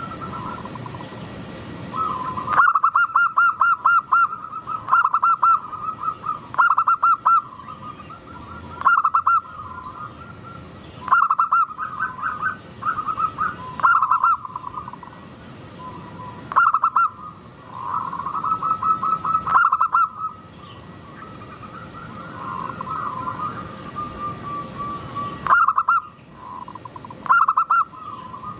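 Zebra doves cooing: loud phrases of rapid staccato coos recur every two to three seconds, with softer, rolling coos in between.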